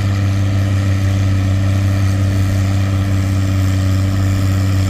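Antique farm tractor engine pulling hard under load against the sled, holding a steady pitch while its big rear tires scratch for traction.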